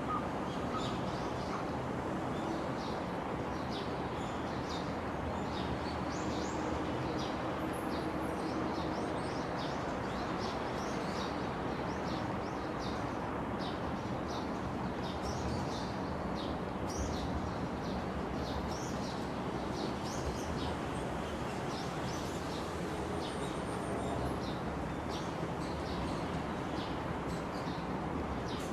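Many small birds chirping and twittering, short high calls coming one after another throughout, over a steady background noise.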